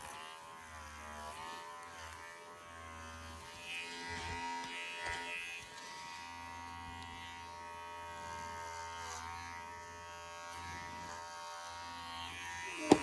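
Small electric hair clipper, an old dog clipper not made for horses, buzzing steadily as it is run through a horse's thick coat, its pitch wavering slightly as it works. It is not a very good clipper for a coat this thick.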